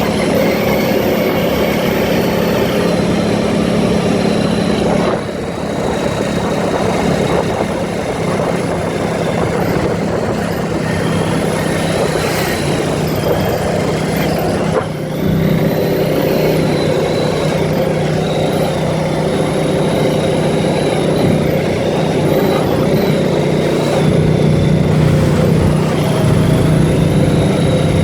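ATV engine running steadily while riding, with engine and road noise throughout. The throttle eases off briefly twice, about 5 and 15 seconds in.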